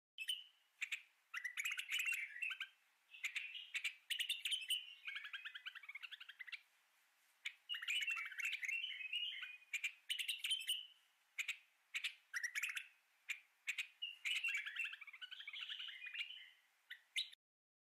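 Birdsong: short chirps and rapid trills in repeated phrases with brief pauses, stopping abruptly just before the end.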